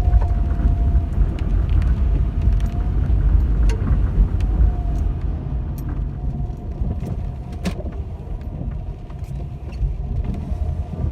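Car driving over a road littered with fallen branches, heard from inside the cabin: a steady low rumble of the tyres and engine, with scattered sharp cracks and snaps as the tyres roll over twigs and branches.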